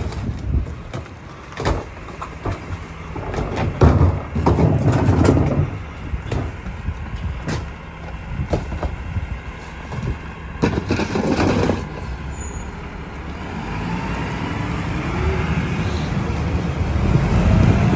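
Garbage truck at work: irregular clatter and knocks of trash and bins, with two louder noisy bursts, then in the last few seconds the truck's diesel engine revs up steadily, its pitch slowly climbing.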